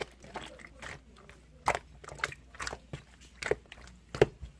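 Translucent pink marbled slime being squeezed and pressed, giving a string of sharp, irregular pops and clicks as air pockets burst, a few a second.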